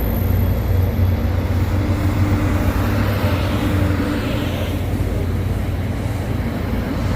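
Diesel-hauled commuter train running, with a steady low engine drone under a rumble of wheel and rail noise.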